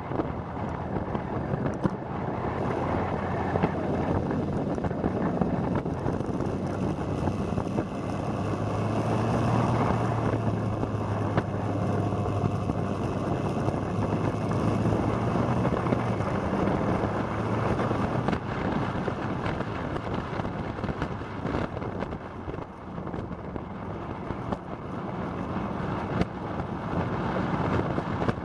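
Motorcycle engine running steadily under way, buried in heavy wind rush on the microphone; the engine note is strongest for several seconds in the middle.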